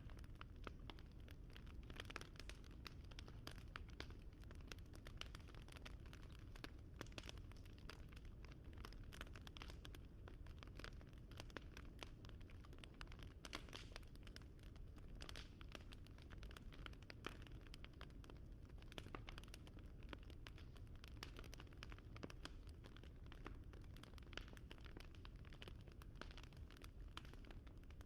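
Wood fire crackling: a dense run of small irregular pops and snaps over a faint low rumble.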